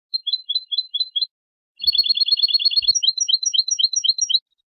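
European goldfinch singing: a run of paired high chirps, about four a second, then a rapid trill of about ten notes a second, then another run of paired chirps, each note a little higher at its start.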